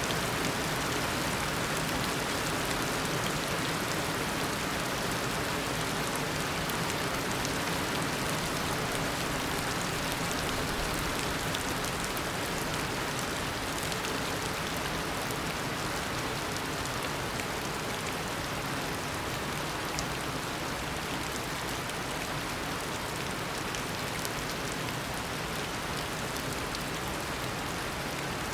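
Heavy tropical rain pouring down steadily: a constant hiss of rainfall with fine scattered drop ticks through it.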